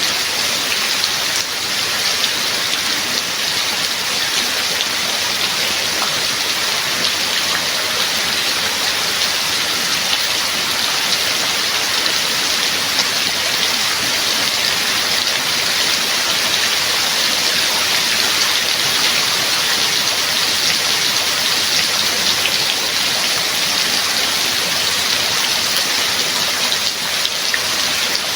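Steady heavy rain falling, a dense even hiss of drops with fine pattering throughout.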